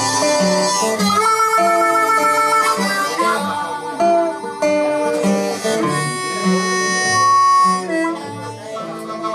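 Blues harmonica playing long held notes over an acoustic guitar keeping a steady, alternating bass line.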